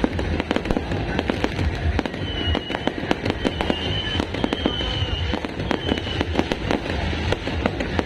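Fireworks going off in a dense, continuous barrage of rapid crackling bangs, several a second. A thin high tone comes and goes a few times in the middle.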